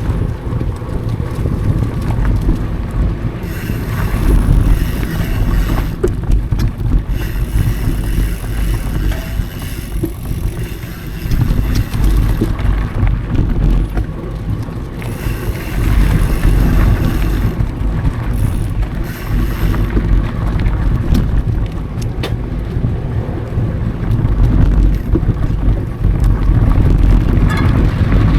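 Mountain bike riding over a dry dirt trail: wind buffeting the action camera's microphone over a steady low rumble from the tyres, with many small knocks and rattles from the bike over bumps.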